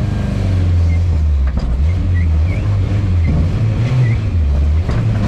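Lada Niva's engine running under load, its note rising and falling as the revs change.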